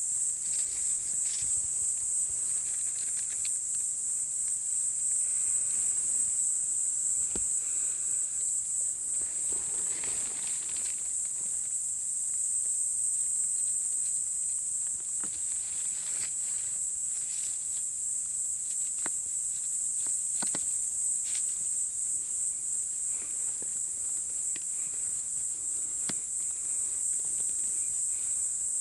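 A steady, high-pitched insect chorus runs without a break, with scattered footsteps and rustles of someone walking through undergrowth.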